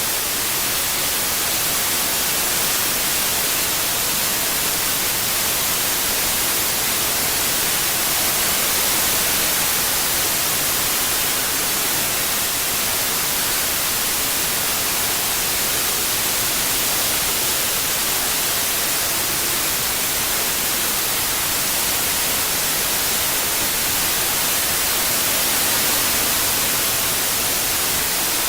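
Steady white noise: an even, unbroken hiss across the whole range, brightest in the treble, played as a masking sound for tinnitus relief.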